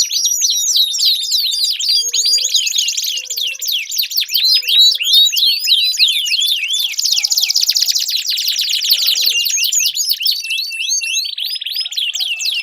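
Domestic canary singing a long, unbroken song of fast, high chirps and sweeping trills, with a stretch of very rapid repeated notes past the middle.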